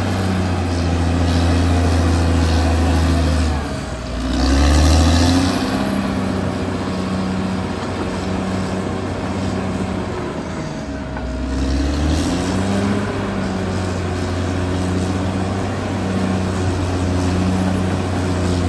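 Caterpillar D6R XL bulldozer's diesel engine running steadily, its note dipping and then rising and swelling twice, about four and twelve seconds in.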